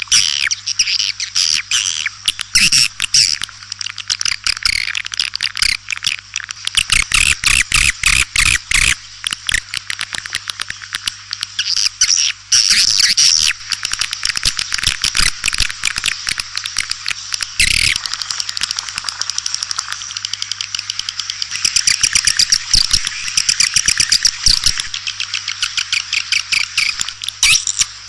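Swiftlets twittering in a dense, rapid stream of high chirps, a recording of the kind played as a lure call to draw swiftlets into a nesting house. A steady low hum runs underneath.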